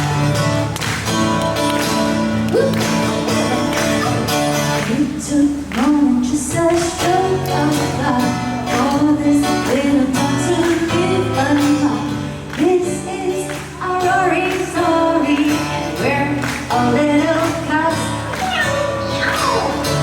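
Live pop band music: singing over guitar, keyboard-like chords and a steady beat, with the sound of a large hall.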